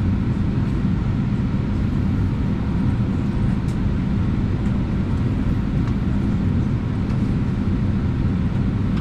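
Steady low rumble inside an Airbus A319 cabin on the ground before taxi, with a faint hum underneath.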